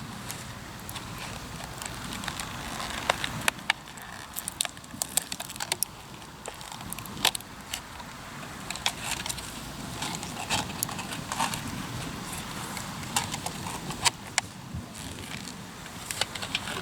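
Hardwood campfire crackling, with frequent irregular sharp pops and snaps over a low, steady rush.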